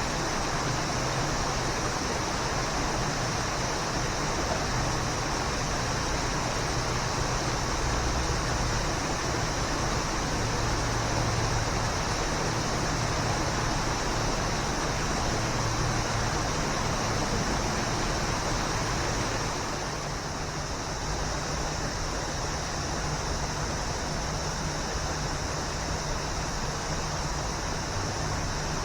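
Waterfall: water rushing steadily, dropping a little in level about twenty seconds in.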